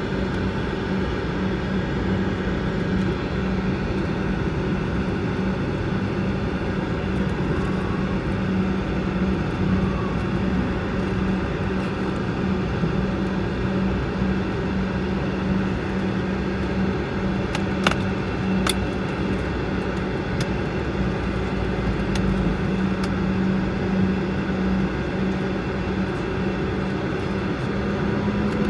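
Steady cabin drone of a Bombardier CRJ-200 heard from inside the cabin, its rear-mounted turbofans running at low power with a steady low hum, as on the ground before takeoff. A few faint clicks come midway, and the hum just starts to rise in pitch near the end as power comes up.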